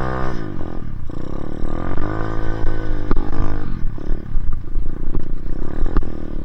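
Dirt bike engine revving hard, the pitch dropping back and climbing again several times as the bike is spun and slid.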